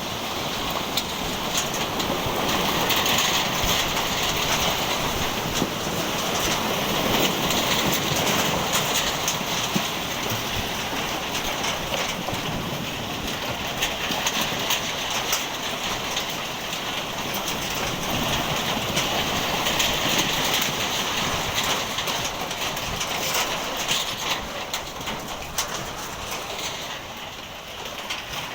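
Strong storm wind with rain, a steady rushing noise that swells and eases in gusts, with scattered patter and ticks of drops or debris. It falls off somewhat near the end.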